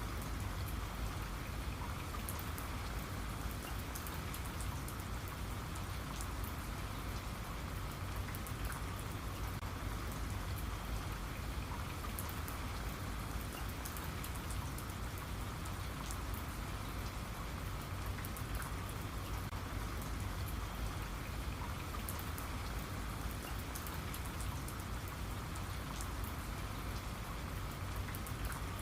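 Steady rain falling, with many small, sharp drop impacts over an even hiss.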